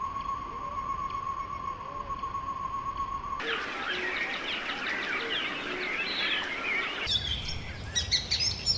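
A steady high tone over a faint hiss for about three seconds. It cuts off abruptly into many small birds chirping and twittering. Near the end it cuts again to quicker, higher-pitched chirps.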